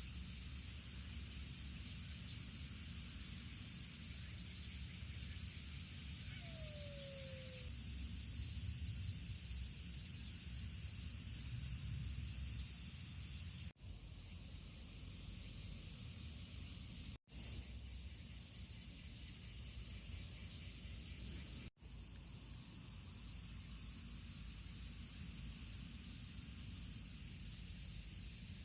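Steady high-pitched insect chorus over a low background rumble, with one short falling call about six seconds in. The sound drops out briefly three times.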